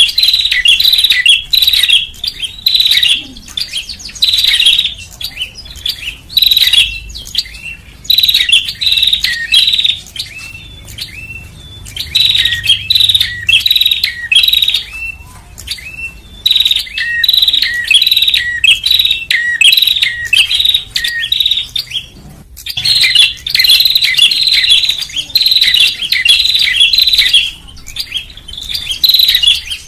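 Prinia (prenjak) calls played as a bird-trapping lure: rapid, repeated high chirps in runs of a few seconds, with short pauses between runs.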